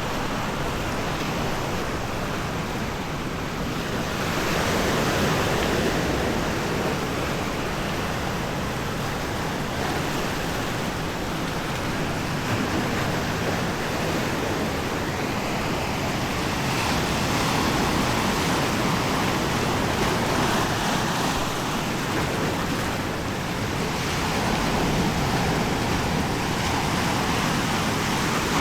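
Waves washing onto a sandy beach, swelling and easing every several seconds.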